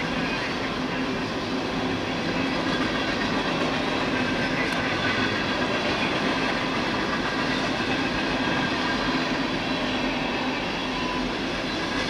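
Freight cars of a long CSX freight train rolling past steadily, steel wheels running on the rails.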